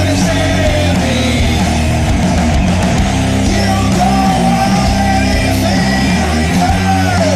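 Loud heavy rock band music, with distorted electric guitar and bass playing steadily.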